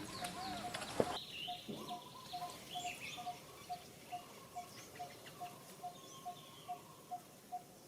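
Birds calling: one short, low note repeats evenly about twice a second, and other birds chirp higher over it. A louder, busier stretch of outdoor noise cuts off abruptly about a second in.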